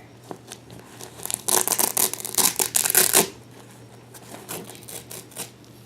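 Crinkly plastic or packaging being handled and crumpled for about two seconds, with crackling, followed by a few light rustles and taps.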